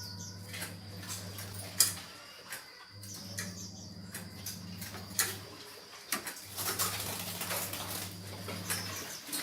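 Chinese francolin calling faintly, the call of a decoy bird used to draw in a flock, with scattered clicks and a low hum that comes and goes.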